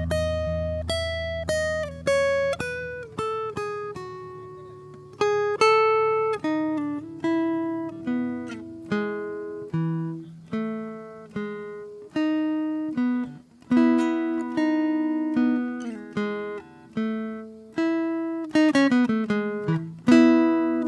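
Acoustic guitar played solo, slow improvised fingerpicked notes and chords that ring out and fade, with a quicker run of notes near the end.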